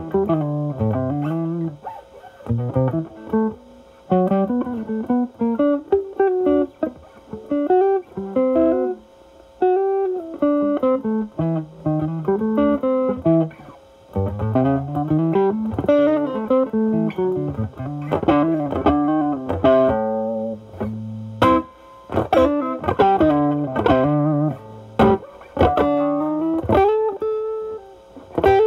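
Stratocaster electric guitar through a Ceriatone Centura Klon-style overdrive pedal at low gain into a Marshall Valvestate amp's drive channel, in a cleaned-up, lightly driven tone. It plays melodic single-note lines with bends, then choppy chord stabs from about two-thirds of the way in.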